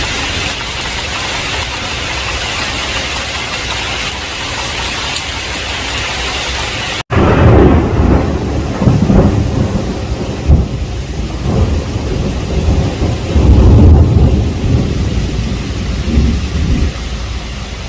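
Heavy rain falling as a steady hiss; about seven seconds in the sound cuts out for an instant, then loud rolling thunder rumbles in several swells over the rain, easing off near the end.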